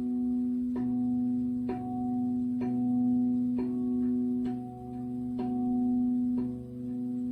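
Singing bowl ringing with a steady sustained tone, struck softly about once a second, each strike adding fresh higher ringing notes over the drone.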